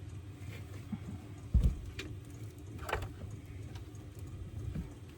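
A single heavy thump about a second and a half in, then a couple of sharp clicks, over a steady low hum.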